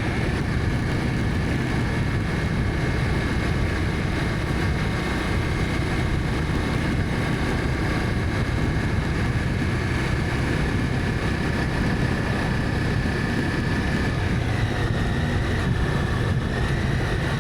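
Honda CB300F's single-cylinder engine running steadily while riding, with wind rushing over the microphone. A thin high whine runs over it and shifts slightly in pitch about fifteen seconds in.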